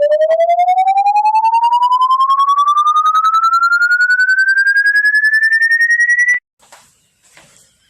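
An electronic tone rising steadily in pitch, pulsing rapidly, which cuts off suddenly about six seconds in, leaving faint scattered clicks.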